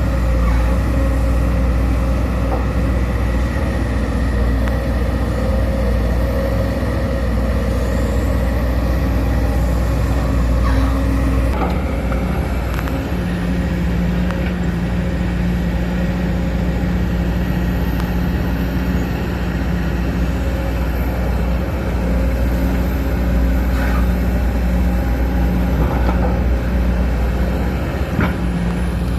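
Sumitomo SH210 hydraulic excavator's diesel engine running under load as it works, a steady drone whose pitch shifts a little under half way through, with a few light knocks.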